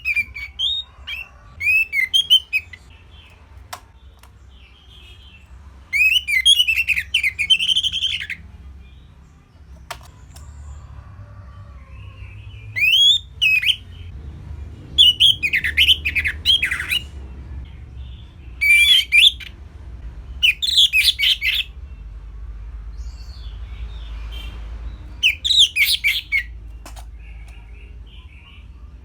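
Orange-headed thrush (anis merah) singing short, varied phrases of quick rising and falling notes, each burst lasting one to two seconds with pauses between, about seven phrases in all, over a faint low hum.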